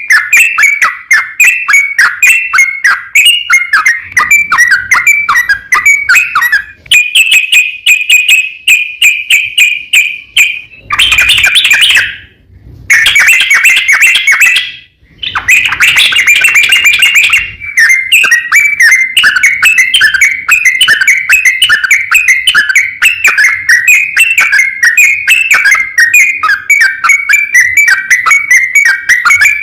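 Yellow-vented bulbul (trucukan) singing a long, fast run of chattering notes, the 'ropel panjang' song used to call and provoke a rival bird. It breaks off briefly twice, about twelve and fifteen seconds in.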